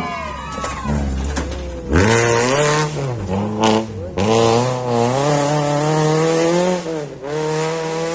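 Rally car engine revving hard as the car drives past, its pitch dropping sharply and climbing again several times as the driver shifts or lifts off.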